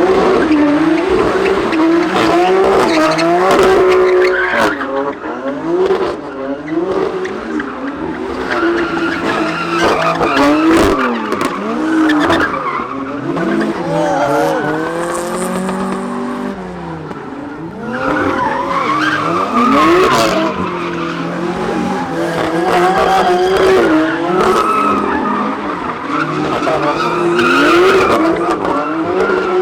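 Car tyres squealing in long, wavering screeches as cars skid, with engines revving under them; loud and continuous.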